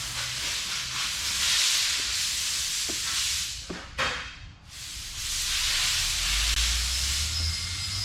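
Compressed air hissing steadily out of a leak. It cuts out briefly about four seconds in, after a few clicks, then starts again.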